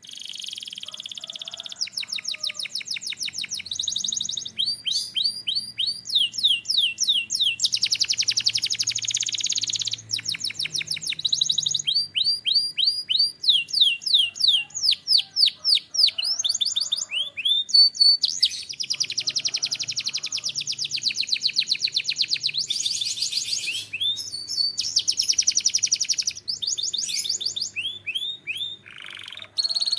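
Domestic canary singing a long unbroken song of fast trills and runs of repeated sweeping notes. The phrase changes every second or two.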